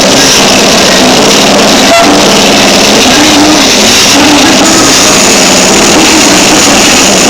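Scania R730 truck's V8 diesel running loud and unsteady, its pitch wavering up and down as the revs change.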